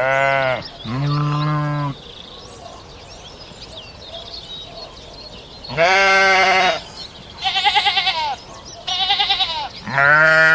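Goats bleating: two low calls at the start, then after a pause of about four seconds another low call, two higher, trembling calls, and a last low call near the end.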